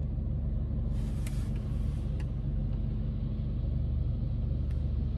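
Steady low rumble of a car's idling engine, heard from inside the cabin, with a brief hiss about a second in and a few faint clicks.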